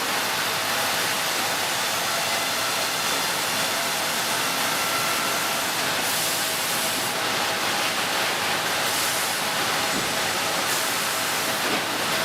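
Sawmill machinery running: a steady rushing noise that reaches high in pitch, with a faint steady tone in it and no distinct blows or cuts.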